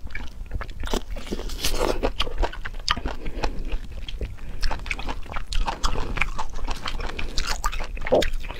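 Biting into and chewing a juicy lemon half: a run of wet, irregular mouth clicks and smacks.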